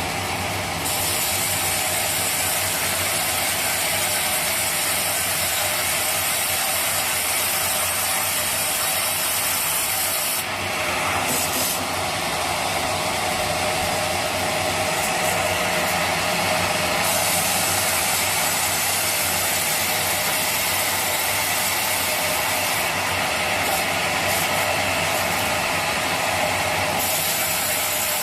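Sawmill saw running through a teak log: a dense, steady mechanical noise with a high hiss that drops out briefly a couple of times.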